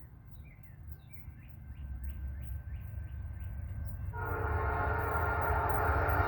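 Norfolk Southern diesel freight train approaching, its low rumble growing steadily louder; the locomotive's air horn starts blowing about four seconds in.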